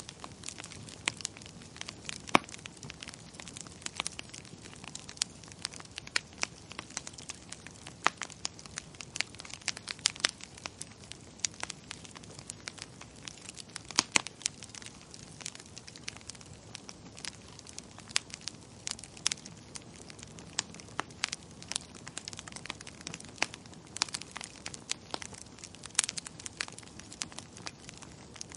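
Wood fire crackling in a fireplace: a steady low hiss with frequent irregular sharp pops and snaps, some louder than others.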